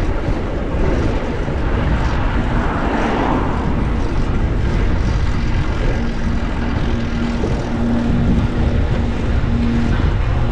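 Wind rushing over an action-camera microphone and road noise while riding a fixed-gear bicycle, a steady low rumble throughout. A low hum comes and goes over it from about halfway.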